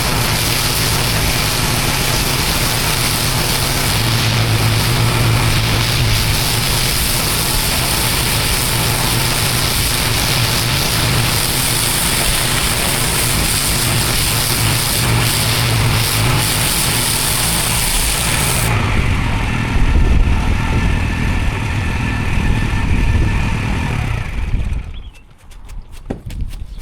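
Pressure washer's engine running steadily under the hiss of high-pressure water spray on block paving. About two-thirds of the way through the spray stops and the engine runs on alone, then the sound falls away sharply near the end.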